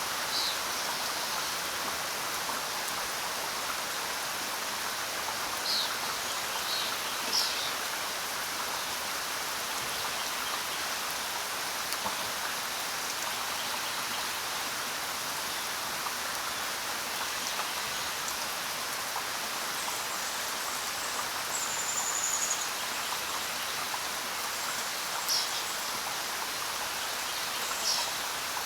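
Steady rain falling on the ground, an even patter throughout. A few brief high chirps sound over it, near the start, about a quarter of the way in and twice near the end.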